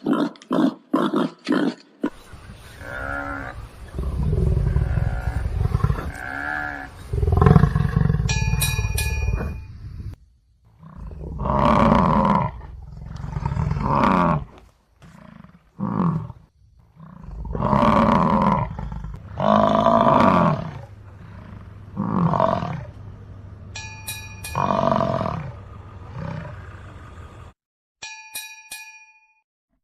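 A large animal's loud, roaring calls repeated about seven times, each a second or two long, over a low rumble, after softer calls and a quick run of short pulses at the start. A few brief high-pitched ringing tones come between them.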